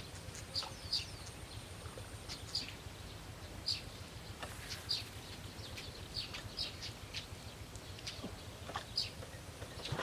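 Small birds chirping: short, high, falling chirps scattered irregularly, over a low steady hum.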